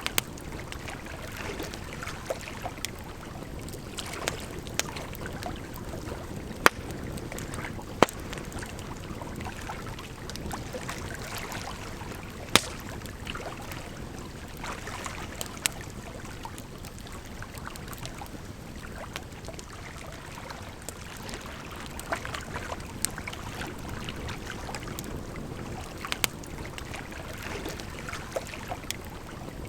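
Campfire crackling, with irregular sharp pops every second or two, over a steady rush of water.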